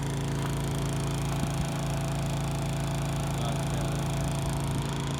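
Small portable generator's engine running at a steady, constant speed, powering an electric induction cooktop.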